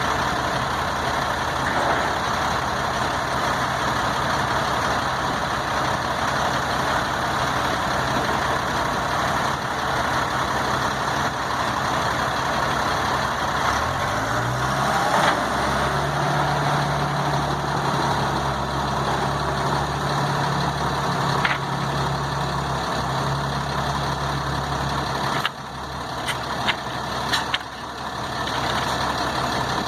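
Heavy diesel truck engine running steadily. About halfway through it revs up and holds a higher, even hum; a few seconds before the end it eases off and a few sharp clicks follow.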